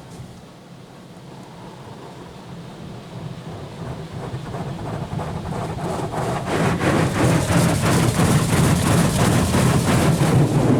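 High-pressure water jets of a Petit Accutrac 360-i touchless car wash drumming on the car's body, heard from inside the cabin. The spray builds steadily louder as the jets come closer, turning into a fast, regular pulsing from about halfway through.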